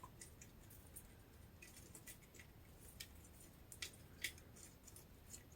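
Near silence: room tone with a few faint, short clicks, the clearest three close together in the second half.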